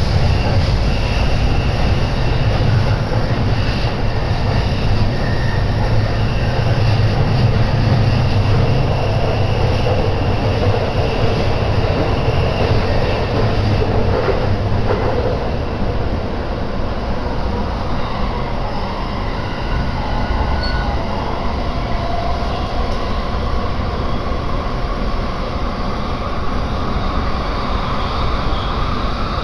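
Joban Line commuter train running between stations, heard from inside the car: a steady rumble of wheels on track with faint high tones over it. The low rumble eases a little about halfway through.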